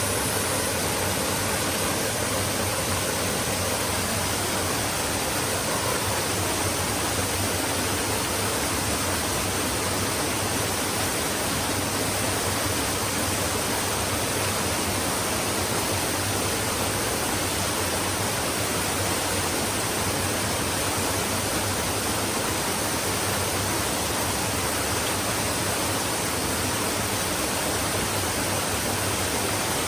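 Flowing stream: a steady, unbroken rush of running water with no change in loudness.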